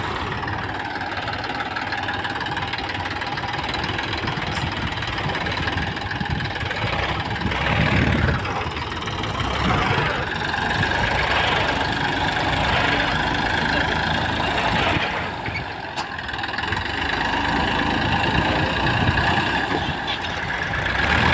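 Diesel tractor engines running steadily, getting louder at a few moments, as tractors pull a heavily loaded, bogged-down tractor and trolley out of soft soil.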